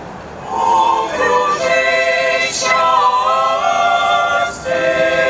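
A group of voices singing a slow song in long held notes, starting about half a second in.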